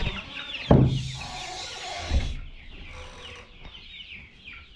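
Young chickens clucking and peeping in a pen, many short high calls overlapping. There are two dull thumps, the first and loudest under a second in and the second about two seconds in, with a rustle between them.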